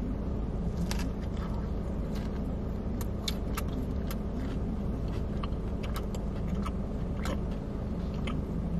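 A person chewing a mouthful of fried chicken sandwich: scattered soft crunches and wet mouth clicks, over the steady low hum of a car that is running.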